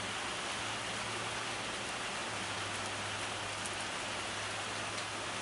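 Steady rain falling, an even hiss with a few faint drips, under a low hum.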